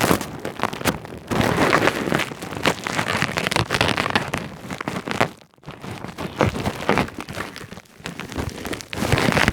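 Close-up ASMR rain sound: a dense patter like heavy rain. It pauses briefly about five and a half seconds in, then resumes and stops abruptly at the end.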